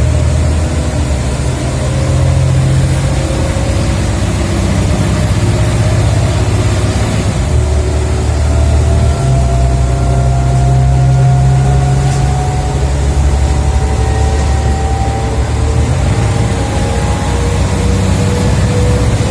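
Scania OmniCity single-decker bus driven hard, heard from on board: a loud, deep engine note with a high gearbox whine that rises slowly in pitch as the bus gathers speed. The engine note shifts a couple of times around the middle.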